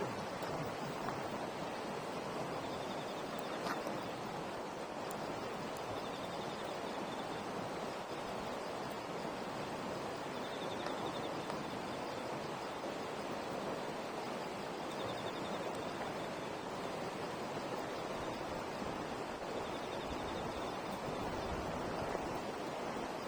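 Campfire burning with a steady hiss and a few faint crackles, and a short high trill repeating about every four to five seconds.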